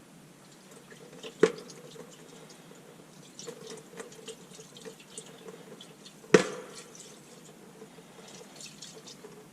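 Old fuel trickling and dripping from a Coleman lantern's tank into a pail, with two sharp knocks, about a second and a half in and about six seconds in.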